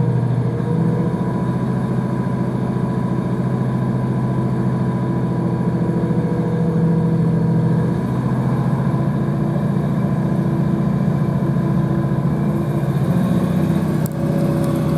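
Class 156 Sprinter diesel multiple unit's underfloor diesel engine running steadily, heard from inside the carriage. Its note shifts about halfway through, and a faint rising tone starts near the end.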